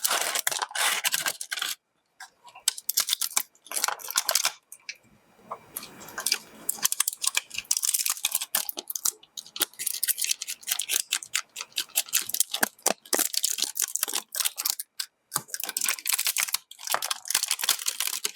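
Hands handling small objects: a dense run of irregular clicks, taps and crinkly rustling, with short pauses about two seconds in and about five seconds in.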